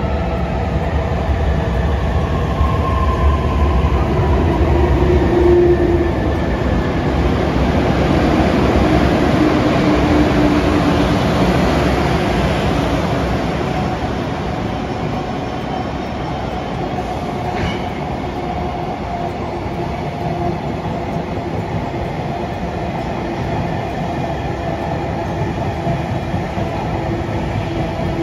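A train running past on rails: a steady, loud rumble with faint whining tones that slide in pitch. It is loudest in the first half and eases a little later on.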